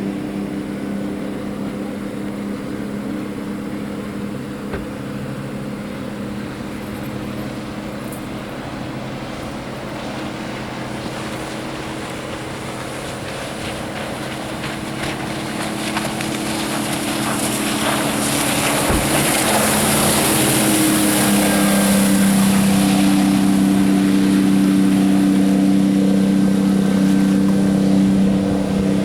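Motorboat engine running steadily with water and wind rushing past. About two-thirds of the way through, the engine grows louder and its pitch steps up as the boat speeds up.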